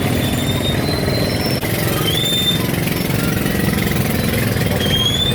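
A small engine running steadily at idle, with a few thin high whistling tones coming and going above it.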